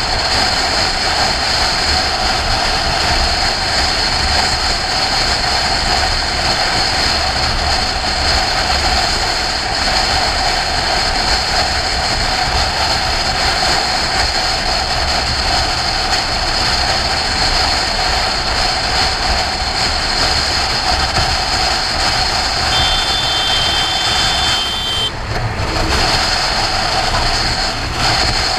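Wind rush with motorcycle engine and road noise, picked up by a helmet-mounted camera riding at about 50 mph on a motorway: a steady, loud roar. Near the end a thin high tone sounds for about two seconds, and the roar dips briefly just after it.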